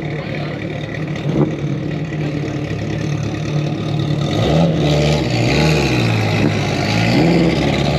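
Car engine running, then revving about halfway through, its pitch swinging up and down and growing louder.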